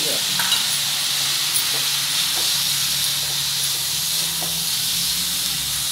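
Vegetables and tomato purée sizzling in a hot pan, a steady hiss, with a few light scrapes of a wooden spatula as they are stirred together.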